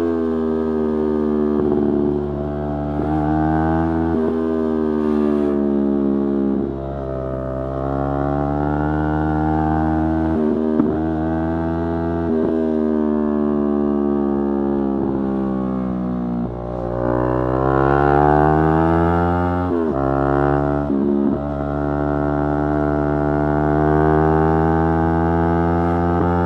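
Yamaha R3's parallel-twin engine running under way, its note climbing and falling again and again, with brief breaks between climbs like gear changes.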